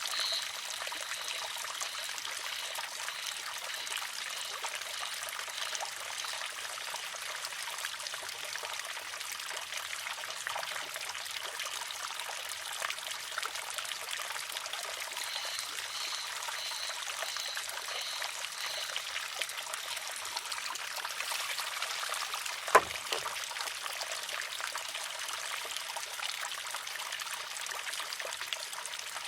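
Water trickling steadily into a wooden shishi-odoshi, broken once, about 23 seconds in, by a single sharp clack as the filled arm tips over and strikes its rock.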